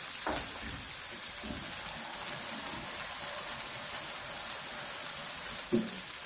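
Garlic, onion, ginger and chili sizzling gently in a little oil in an aluminium wok: a steady soft hiss, with one soft knock near the end.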